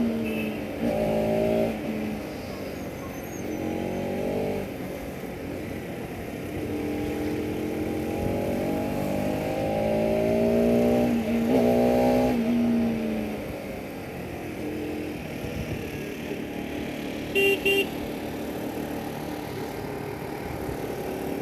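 Bajaj Pulsar RS200's single-cylinder engine revving hard under acceleration. Its pitch climbs and falls back again with each gear change, then runs steadier and lower in the last third. Near the end a horn gives two short toots.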